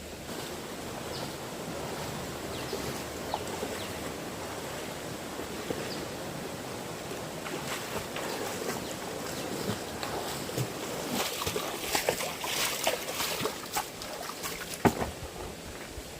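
Fast-flowing stream water rushing steadily, with irregular splashes and knocks that come thicker in the second half and one sharp knock near the end.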